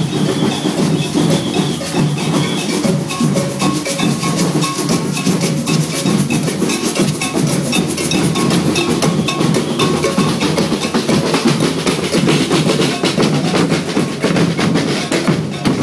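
Procession drums beating a fast, dense rhythm of snare and bass drum strokes.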